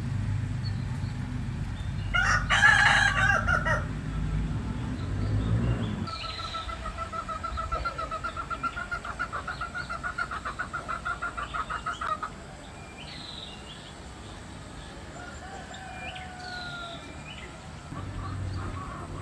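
A rooster crowing about two seconds in, over a low rumble. A long, fast-pulsing call follows for about six seconds, then small birds chirp briefly.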